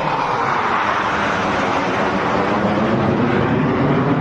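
Military aircraft flying past during an air show display, its engines making a loud, steady rushing noise that builds slightly toward the end.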